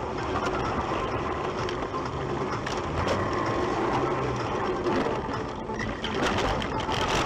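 Vehicle driving, with steady engine hum, road noise and rattling.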